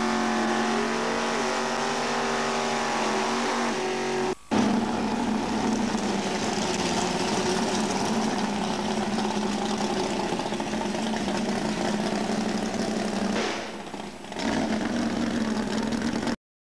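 Cobra-replica drag car's engine held at steady high revs during a burnout at the start line. After an abrupt cut about four seconds in, it runs at a lower, rougher steady note as the car rolls slowly.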